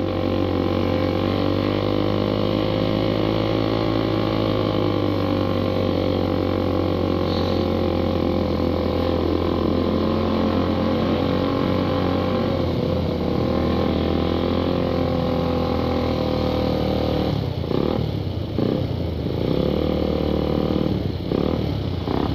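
Suzuki Satria FU 150's single-cylinder four-stroke engine running through a gutted stock exhaust (knalpot bobokan) as the bike rides along at a steady, moderate engine speed. From about three-quarters of the way in, the engine note drops and comes back several times.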